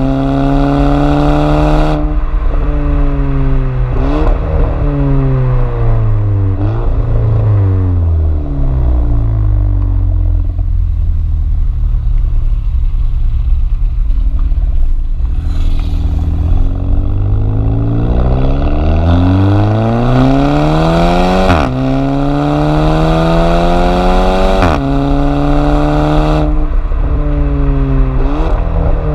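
Volkswagen GTI 1.8 TSI turbocharged four-cylinder through an aftermarket custom exhaust, revving up and down repeatedly. The note climbs and drops suddenly in pitch several times, with a long fall to a low, quieter stretch in the middle before it pulls up again.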